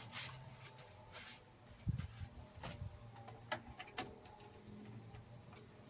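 Faint, scattered clicks and knocks of hands handling small metal parts while working a bolt whose thread had not caught properly.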